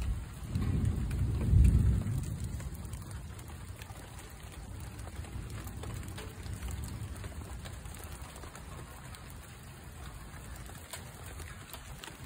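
Steady rain falling, with scattered drops ticking close by. A loud low rumble swells and fades in the first two seconds.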